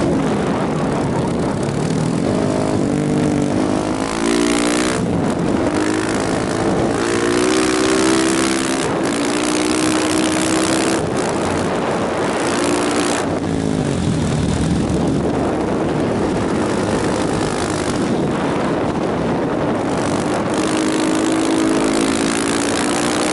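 KTM motorcycle being ridden: the engine revs up and drops back again and again through gear changes, under a steady rush of wind.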